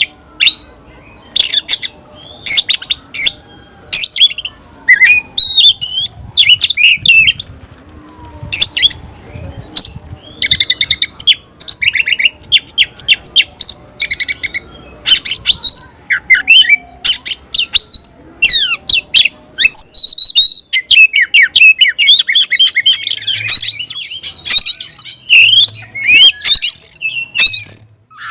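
Oriental magpie-robin (kacer) singing loudly: a rapid, varied run of whistles, chirps and harsher notes with short gaps, turning into a near-continuous stream of song in the last third.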